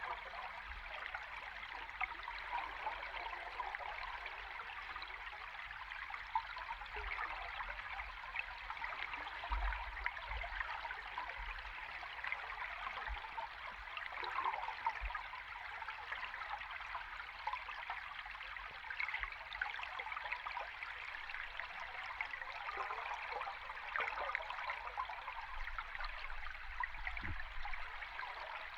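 A river stream recorded underwater: a steady, dense bubbling and fizzing rush of moving water, with a few soft low thuds now and then.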